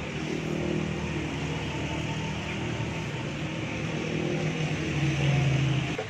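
A vehicle engine running steadily, swelling louder about five seconds in and then dropping away sharply near the end.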